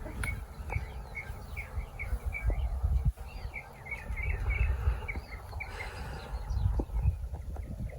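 Small birds chirping over and over in quick short notes, with a low fluttering rumble underneath.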